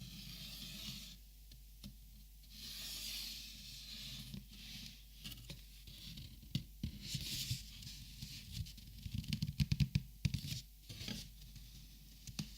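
Close-up handling of Copic markers: soft rustling and scraping swells, then a quick run of light taps and clicks about nine to ten seconds in, the loudest part.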